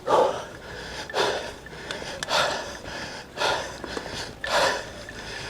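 Cyclist breathing hard, with a heavy puffing breath about once a second, five times: panting from exertion.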